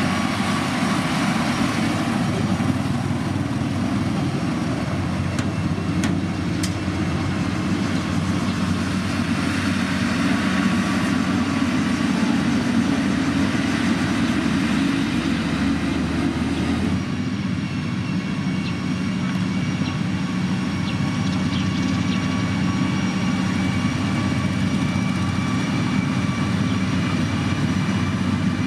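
Heavy motor grader's diesel engine running steadily under load. Its sound shifts abruptly about two-thirds of the way through, then continues steady.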